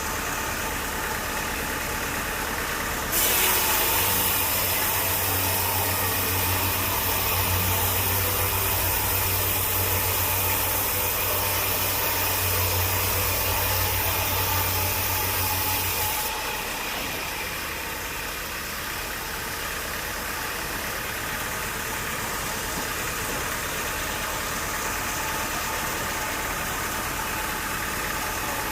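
Sawmill machinery running steadily. About three seconds in it turns abruptly louder and brighter, with a low hum underneath, and drops back to the steadier running sound after about thirteen seconds.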